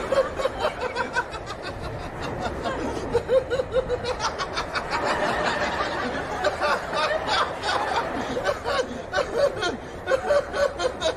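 Audience laughing and chuckling, in waves that rise and fall without stopping.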